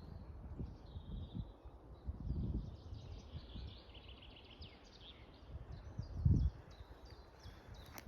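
Small woodland birds singing, a string of short high chirps and trills throughout, over occasional low thumps, the loudest about six seconds in.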